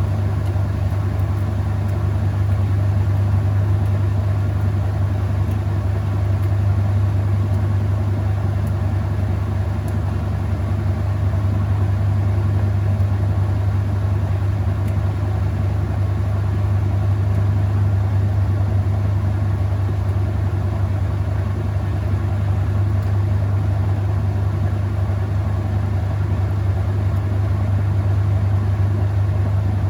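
Whirlpool top-load washing machine spinning at steady speed in its final spin, a constant low motor hum with no change in pitch or level.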